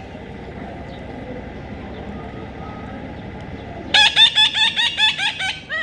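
Parrot squawking: a rapid run of about nine harsh calls, some five a second, starting about four seconds in after a low steady background hiss.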